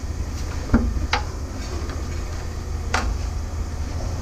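A few short metallic knocks and clinks as scrap metal pieces are handled, the loudest near the end, over a steady low rumble.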